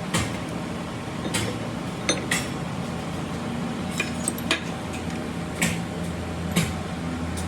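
Metal tools and parts clinking and tapping against each other, about nine light, irregular knocks, over a steady low hum.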